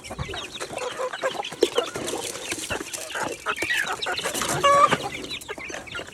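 Chickens clucking, a busy stream of short overlapping calls, with one louder drawn-out call about three-quarters of the way through.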